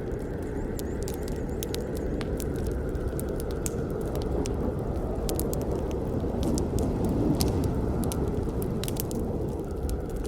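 Campfire burning: a steady low rush of flame with many sharp crackles and pops from the burning wood.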